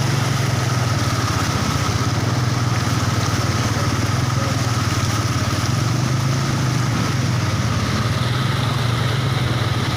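Steady low hum of a running motor, unchanging throughout, over an even hiss.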